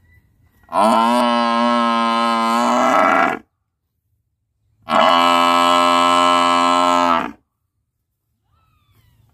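Buffalo mooing: two long, steady moos of about two and a half seconds each, separated by silence, with a third starting at the very end.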